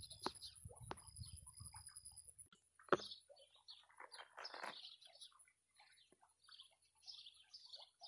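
Small birds chirping in quick, overlapping calls, busier in the second half, over a thin steady high-pitched whine. A few sharp clicks in the first three seconds, and a low rumble that stops about two and a half seconds in.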